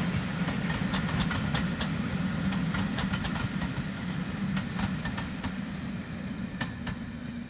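Train of passenger coaches rolling past, wheels clicking over the rail joints above a steady rumble, fading as the train draws away.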